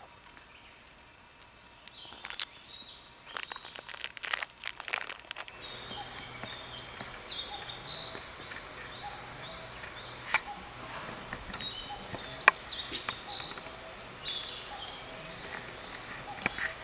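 Rustling and crinkling handling noises for a few seconds, then small birds singing in repeated high chirping phrases, with a few sharp clicks.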